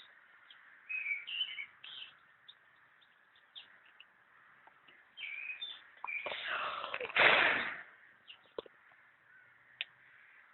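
Small birds chirping in short calls, with a loud harsh burst about seven seconds in.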